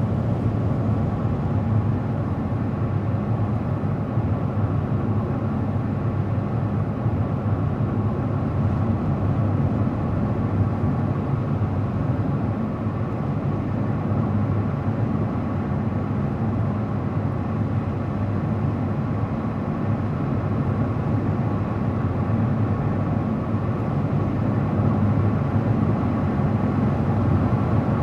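Car driving at a steady speed: constant low road rumble of tyres and engine.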